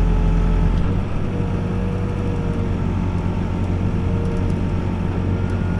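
Backhoe's diesel engine running steadily under load as it digs, with a thin hydraulic whine setting in about a second in.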